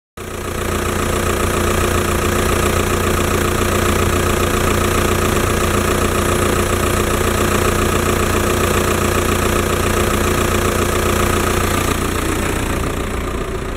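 Audi A4 B7 2.0 TDI (BRE) four-cylinder turbodiesel engine running steadily at idle during an engine test, getting a little quieter near the end.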